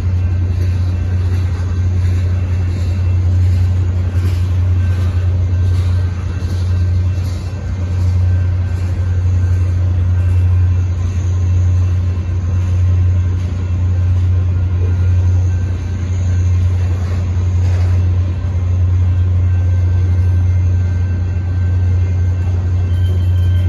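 Freight cars of a Union Pacific manifest train, tank cars and covered hoppers, rolling past close by: a steady, loud low rumble from the wheels and cars, with a few faint clacks.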